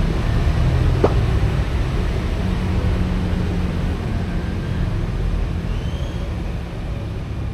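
Steady low rumble of outdoor background noise, such as traffic or wind on the microphone, with a single sharp click about a second in.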